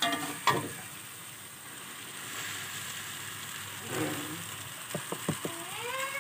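Minced pork and egg sizzling steadily in an aluminium wok, with two sharp knocks of the spatula on the pan right at the start. About four seconds in, rice vermicelli is tipped into the wok, followed by a few quick clicks.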